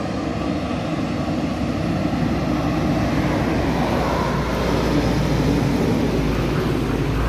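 Isuzu dump truck's diesel engine and tyres passing close on a road, steadily getting louder and deeper as it draws alongside near the end.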